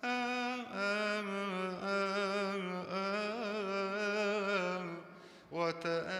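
A man chanting solo in Coptic liturgical style: a long, ornamented wordless melody sung on held notes with a wavering vibrato, with a short break about five seconds in.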